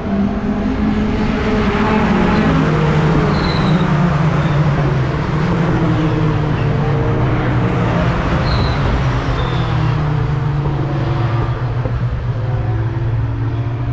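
Racing pickup truck's engine running hard. Its pitch drops about two seconds in, then holds and shifts slightly as the revs change.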